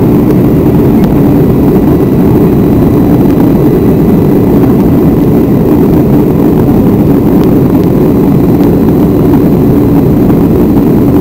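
A Boeing 737 airliner climbing out after takeoff: a steady, loud, low rumble of jet engines and rushing air that holds unchanged throughout.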